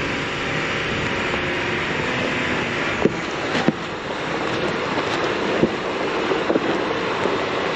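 Off-road vehicle driving along a rough dirt trail: a steady mix of engine, tyre and wind noise, broken by a few sharp knocks and rattles about three seconds in and again later.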